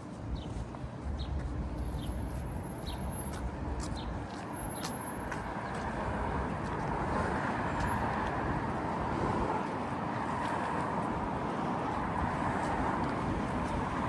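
Street traffic noise with a walker's footsteps on the pavement, about two steps a second, in the first few seconds. From about six seconds in, passing traffic swells and holds loud.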